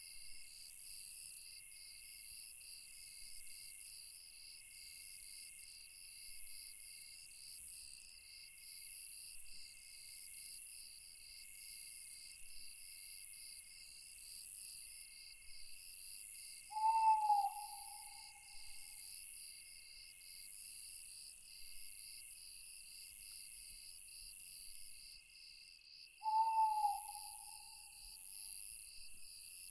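A steady chorus of night insects, crickets trilling in even pulses, with an owl giving two single hoots, each a short, slightly falling note, about nine seconds apart in the second half.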